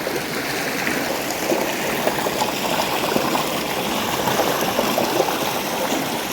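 A river stream running over stones, a steady rushing and babbling of water.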